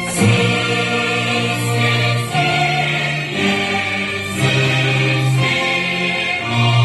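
A choir singing, holding long low notes that change every second or two.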